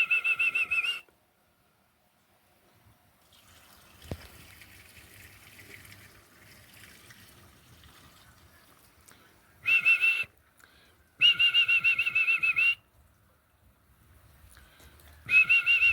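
A trilling whistle blown in four bursts, a short one near the start, two more about ten and eleven seconds in and a last one near the end, calling young roller pigeons back to the loft.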